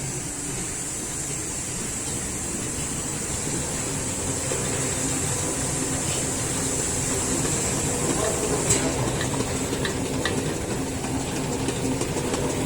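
Filter-paper pleating machine running: a steady mechanical hum under a high hiss, with a few clicks joining about nine seconds in and a fast, even ticking near the end.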